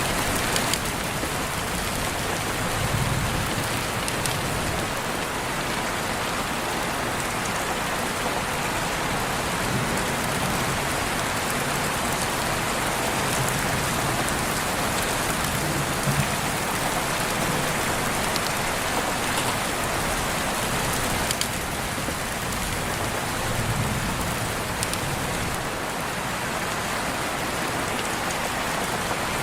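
Steady rain, an even hiss of drops on surfaces, with a few sharp ticks of single drops now and then.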